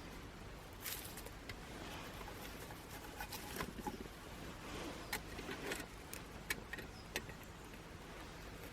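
Small twig fire crackling: scattered light snaps and clicks over a faint hiss, with a stretch of soft rustling in the middle.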